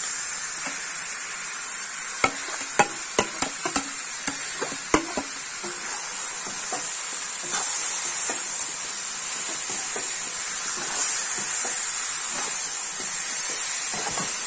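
Marinated chicken pieces sizzling in hot oil with fried onions in an iron kadai as they are stirred with a metal slotted spatula. A quick run of sharp knocks against the pan comes about two to five seconds in.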